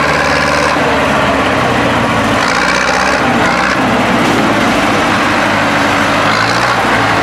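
Tractor engine running continuously, its pitch rising and falling as the throttle changes.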